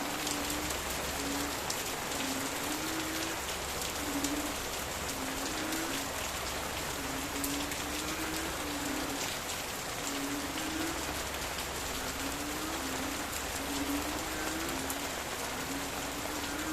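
Steady rain falling on leaves, with individual drops tapping, and frogs calling in the background: short, low, slightly rising croaks repeated about once or twice a second.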